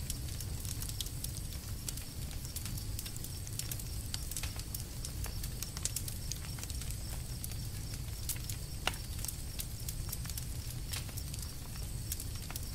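Campfire crackling: irregular sharp pops and snaps from the burning wood over a low, steady rumble of the flames.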